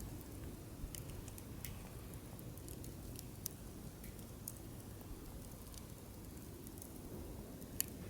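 Wood campfire burning with a low, steady rumble of flame and sparse, sharp crackles and pops from the firewood, about one every second or two, the loudest a little before the end.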